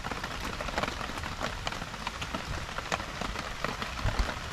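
Steady rain falling, a dense, irregular patter of separate drop hits, with a couple of low thumps near the end.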